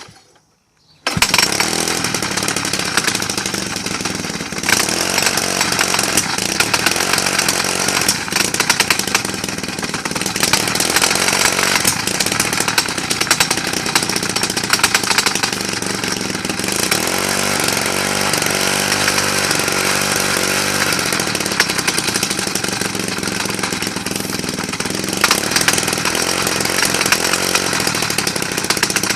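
Atlas Copco Cobra 149 petrol breaker's two-stroke engine running loudly and steadily from about a second in.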